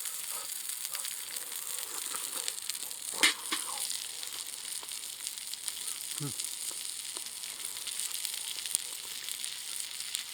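Wood fire burning in a can stove, hissing steadily with fine crackles and one sharp pop about three seconds in.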